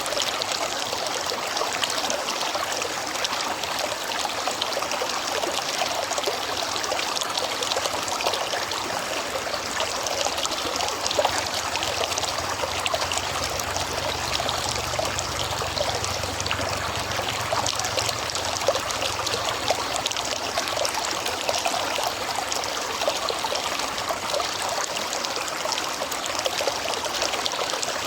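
River water running steadily, an even rushing and trickling flow. A faint low hum rises under it from about 12 to 19 seconds in.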